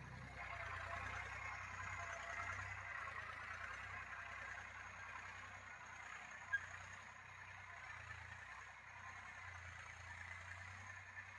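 Massey Ferguson 1035 DI tractor's three-cylinder diesel engine running steadily, faint and low, under a steady hiss. A single sharp click about six and a half seconds in.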